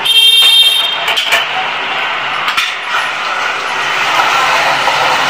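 Ground masala paste poured into hot oil in a steel kadai starts sizzling loudly all at once, then keeps up a steady frying sizzle. A few clinks of metal on the pan come in the first few seconds.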